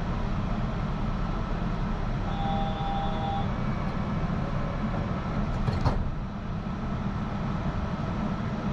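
Yurikamome rubber-tyred automated guideway train running, heard from inside the car: a steady low rumble. A brief steady tone sounds about two and a half seconds in, and there is a single knock near six seconds.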